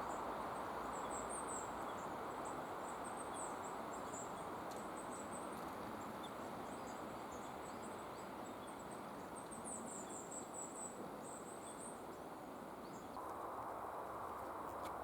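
Runs of faint, very high-pitched chirps over a steady rushing background, about a second in, again a few seconds later, and a longer run around the middle.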